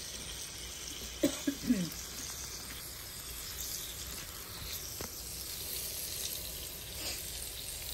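Beef pieces in a yogurt-and-lemon masala sizzling and frying in a large flat pan on full flame, stirred with a spatula. About a second and a half in, three quick, sharp sounds stand out.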